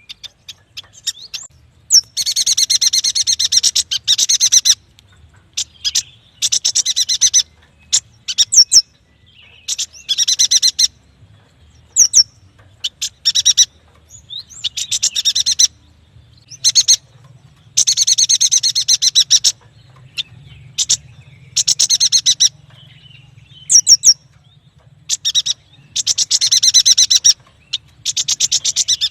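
Yuhina singing: loud bursts of fast, high trilling chatter about a second or two long, repeated every few seconds, with short sweeping single notes between them.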